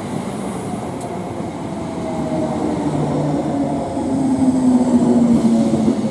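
Greater Anglia Class 321 electric multiple unit pulling into the platform. Its running noise builds as the carriages pass, with a low whine that falls slightly in pitch as the train slows.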